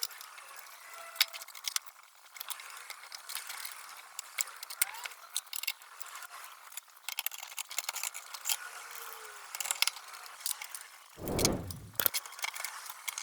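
Scattered light metallic clicks and rattles of tools and small parts being handled, with one low dull thump about eleven seconds in.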